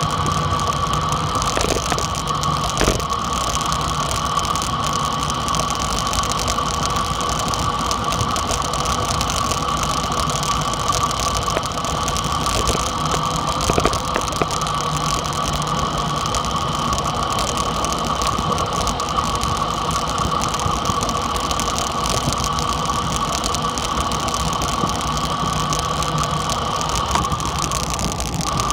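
Dirt bike engine running at a fairly steady speed while being ridden.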